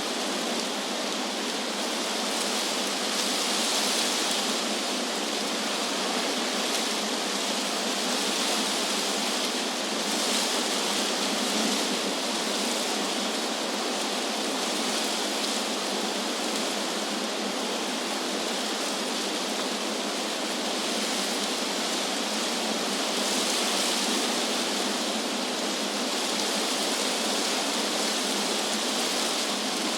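Wind blowing through trees, a steady rushing hiss of leaves that swells and eases every several seconds.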